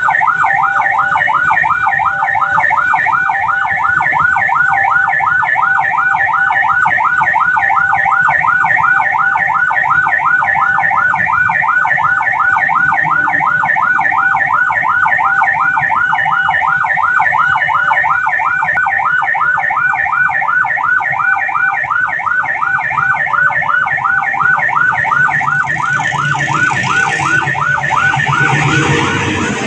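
Indonesian railway level-crossing warning alarm sounding, a rapid, evenly repeating electronic ding that runs on steadily, signalling that a train is coming. A rushing noise with a low rumble builds near the end.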